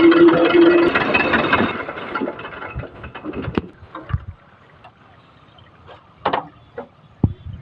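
An engine running steadily winds down and stops over the first two seconds, followed by scattered knocks and clatter, the loudest about six seconds in.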